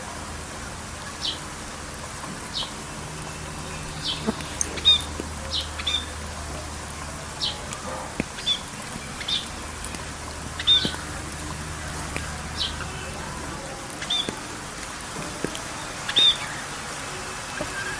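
Birds chirping: short, sharp high calls repeated about once a second over a steady background hiss. A low hum underneath stops about three-quarters of the way through.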